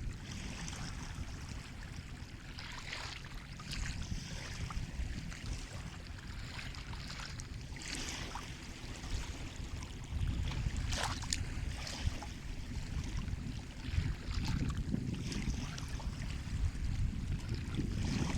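Sea waves washing on a shore: a steady low rumble with short splashes and hissing washes every few seconds, a little louder from about halfway in.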